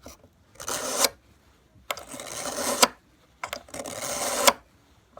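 Three rasping strokes of a handheld Berkley knife sharpener drawn along an ice auger blade, each growing louder and ending in a sharp click. The rasp is the sign of the blade's edge being sharpened.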